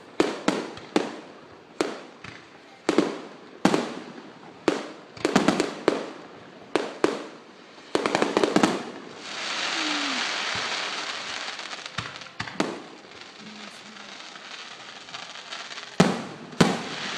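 Fireworks bursting overhead: a quick run of sharp bangs, one or two a second, each with a short echo. About nine seconds in they give way to a steady hiss, and two more loud bangs come near the end.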